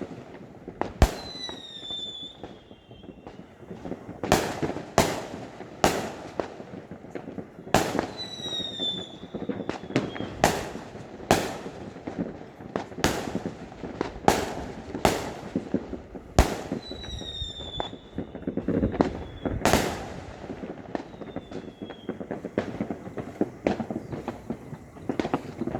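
Fireworks going off: a run of sharp bangs, roughly one a second, over a continuous low rumble of more distant bursts. Three times a short falling whistle follows a bang.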